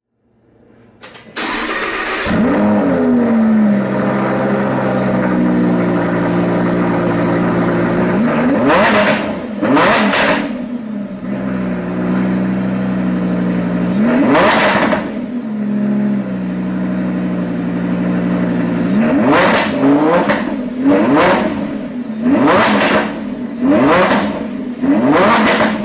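Lamborghini Huracán's V10 engine starting with a flare of revs and settling to idle, then revved in sharp blips: two around the ninth and tenth seconds, one a few seconds later, and a quick run of blips near the end.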